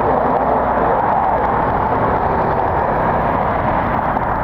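Steady roar of jet aircraft engines at the airfield, mixed with strong wind buffeting the microphone.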